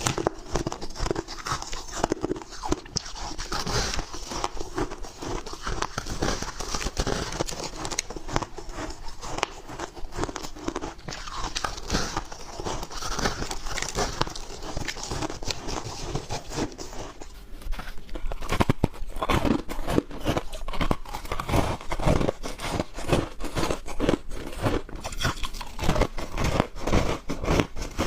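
Close-up biting and crunching of soft, chunky white ice (freezer frost), many rapid crackly crunches one after another, sharper in the second half.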